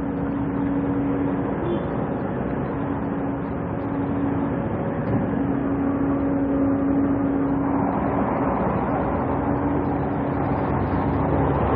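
A vehicle engine running steadily with a low hum, over a wash of even noise that grows louder from about eight seconds in.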